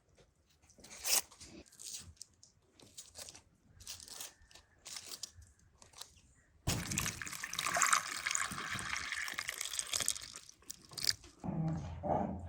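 Scattered crunching and clicking, then water splashing steadily for about four seconds, stopping suddenly. A dog starts growling near the end.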